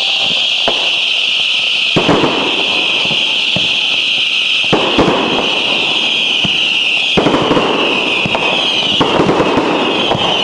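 Fireworks going off: a series of bangs, with heavier bursts about every two to three seconds, over a steady high crackling hiss.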